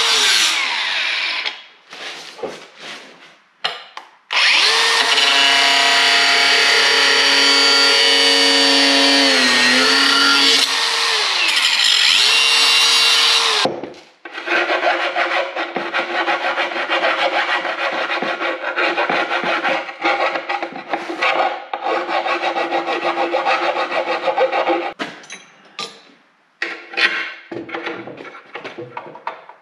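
Power tool cutting through wood, its motor whine dipping in pitch as it bogs under load partway through. It runs in two long cuts with a short break between, then stops, and light handling knocks follow.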